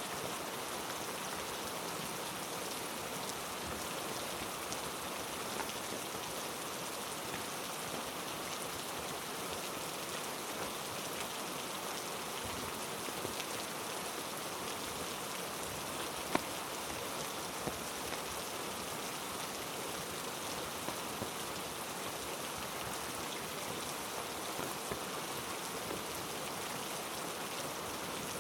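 Heavy rain falling steadily, with scattered faint ticks and one sharper tick about two thirds of the way through.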